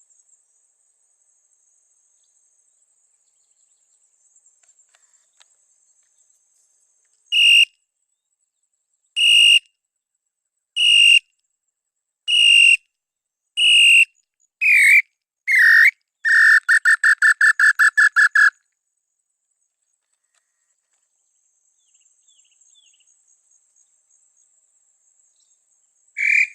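Tataupa tinamou song: a series of loud, pure whistled notes that come ever closer together, the last ones sliding down in pitch, breaking into a fast run of about a dozen notes lasting some two seconds. A faint steady high-pitched tone runs behind it.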